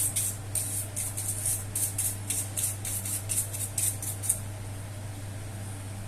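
Quick rhythmic scrubbing strokes, about three a second, from cleaning dust and cat hair off the parts of a disassembled computer mouse; they stop about four seconds in. A steady low hum runs underneath.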